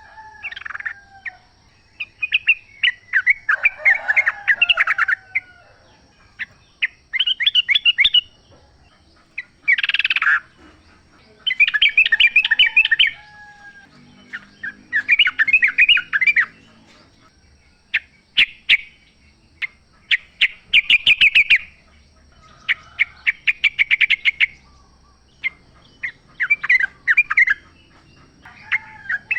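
Yellow-vented bulbuls (trucukan) singing: loud, bubbly phrases of quick chattering notes, each a second or two long, repeated every couple of seconds with short pauses between.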